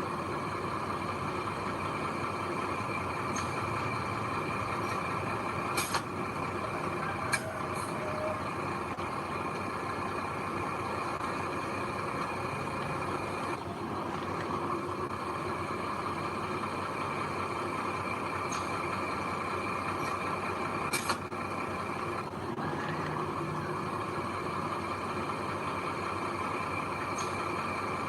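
Heavy diesel machinery running steadily, a constant drone, with a few sharp metallic clicks or clanks, one about six seconds in, another a second or so later and one more about twenty-one seconds in.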